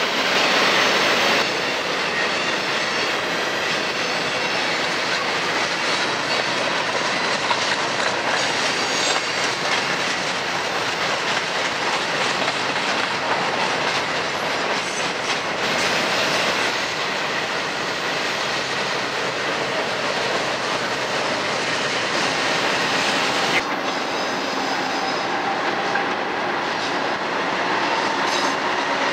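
Freight train of tank cars, covered hoppers and boxcars rolling steadily past, the wheels clicking over rail joints, with some wheel squeal.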